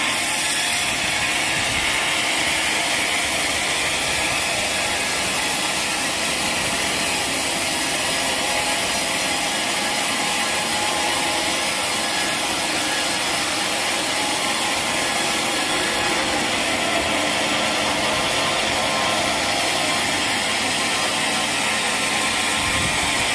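Sawmill saw running steadily through a mahogany log, a continuous dense mechanical noise with a faint rattling of machinery.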